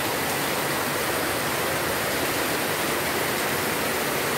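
Heavy tropical downpour: dense rain falling in a steady, unbroken hiss.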